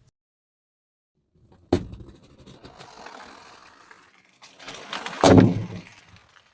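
Car tyre rolling onto and crushing an object: a sharp crack, then crackling, and about five seconds in a louder crunching burst that fades away.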